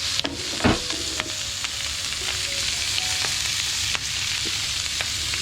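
Bacon, onion and green pepper sizzling in a frying pan as they are stirred, with scattered clicks of the utensil against the pan and one louder knock near the start.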